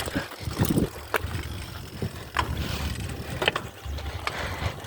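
Bicycle ridden over a dirt trail: a steady low rumble of tyres and wind on the microphone, with sharp rattles and knocks about once a second as it goes over bumps.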